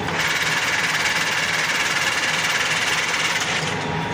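FT-11F1 metal lathe running, its carriage driven along the bed on rapid traverse: a steady mechanical running noise of the gearing and feed drive, louder from just after the start and easing briefly near the end.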